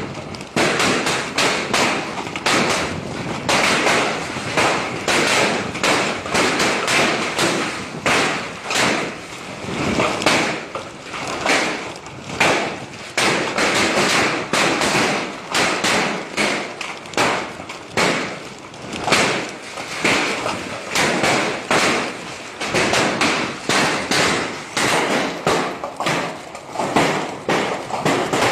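Heavy hail: a dense, continuous clatter of hailstones striking a hard surface, rising and easing every second or so.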